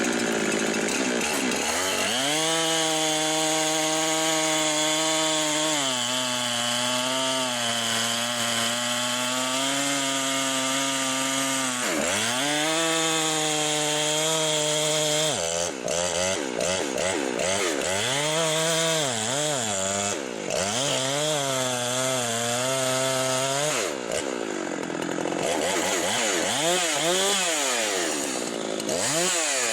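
Husqvarna 390 XP two-stroke chainsaw running hard, held at high revs for several seconds at a time. In the second half the pitch swings up and down repeatedly as the throttle is blipped, with brief dips to lower revs.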